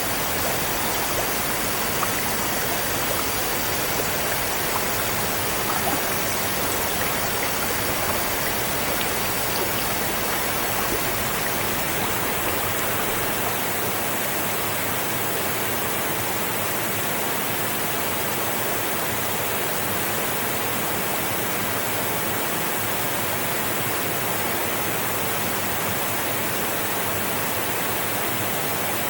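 Flowing river water rushing steadily, an even unbroken wash of noise.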